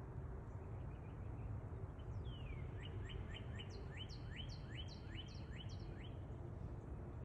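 A songbird singing: one longer falling note, then a rapid series of about a dozen repeated quick sweeping notes, over steady low outdoor background noise.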